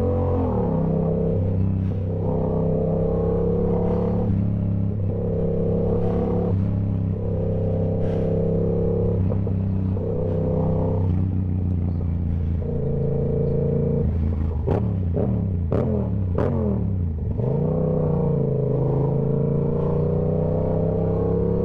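Yamaha YZF-R7's parallel-twin engine through a TOCE full aftermarket exhaust, running at steady cruising revs with small rises and falls of the throttle. There are a few sharp clicks about two-thirds of the way in, then the revs dip and climb back up.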